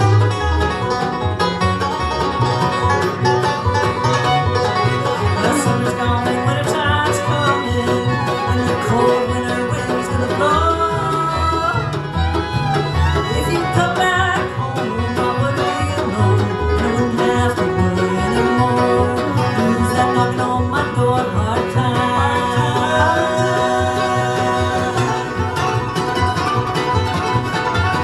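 Live bluegrass band playing: banjo and guitar over a stepping upright bass line.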